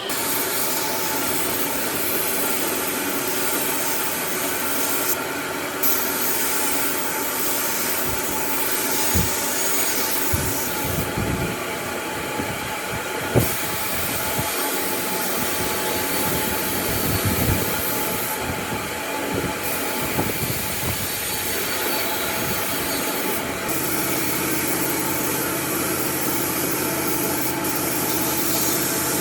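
Electric power tool running steadily on wood, with a few knocks and one sharper knock about halfway through. Its pitch shifts lower a little after the two-thirds mark.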